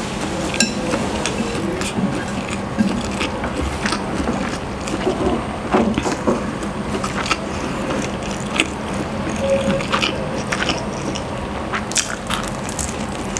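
Chewing and smacking of a person eating instant pancit canton noodles and a soft chocolate-filled pandesal bread roll, with many short, sharp wet mouth clicks; a bite into the roll comes near the end.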